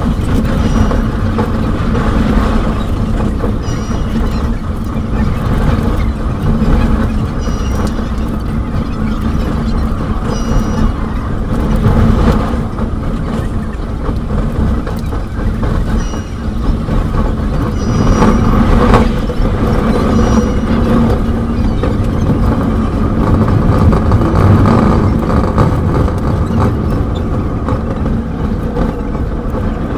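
Passenger train running along the line, heard from the carriage as a steady loud rumble and rattle with a low hum, sped up 3.5 times. Short high-pitched chirps come every couple of seconds.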